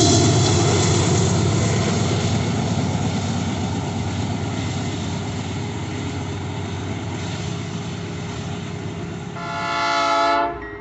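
A train runs past with a rumble that slowly fades. Near the end a locomotive horn gives one short blast of about a second, then cuts off.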